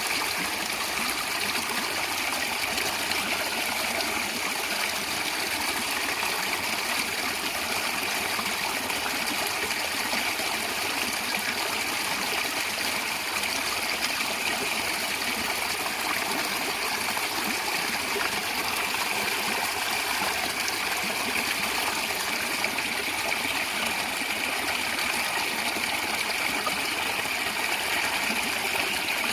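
A natural stream flowing and gurgling, a steady, unbroken water sound.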